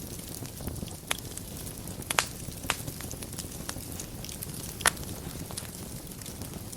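Wood fire burning in a fireplace: a steady low rumble with irregular crackles and a few sharper pops, the loudest about two seconds in and near five seconds.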